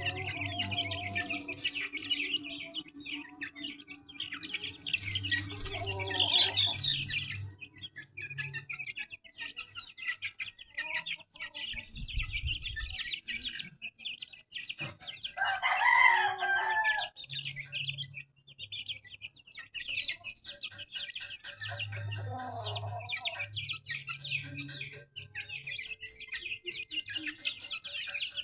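A flock of young chicks peeping and clucking without pause. A rooster crows about halfway through, the loudest sound, with a shorter loud burst of calling earlier on and a fainter call later.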